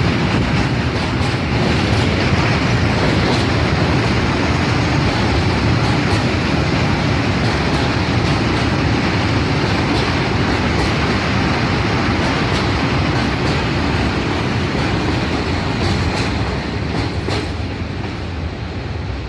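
A train running past close by: a steady loud rumble and rush of wheels on rail, with wheel clicks over rail joints that stand out near the end as the sound eases slightly.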